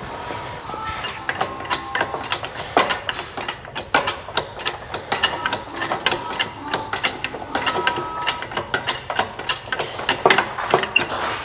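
A ratchet wrench clicking in quick runs on bolts, with sharp metal-on-metal clinks and brief ringing.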